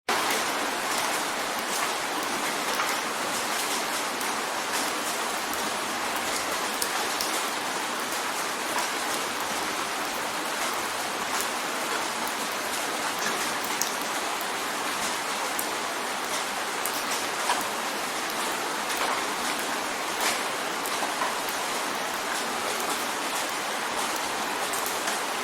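Steady rain drumming on a windowpane: a continuous hiss of rainfall with many individual drops ticking sharply against the glass.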